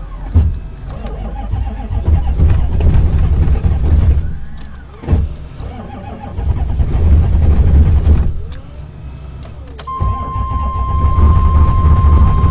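A Chevy 6.5 turbo diesel V8 is cranked three times in deep cold with failing glow plugs and does not fire. Each crank is a few seconds of heavy, labouring starter grinding with short pauses between. The grinding comes from the starter's mounting bolts beginning to shear. A steady electronic tone starts during the third crank.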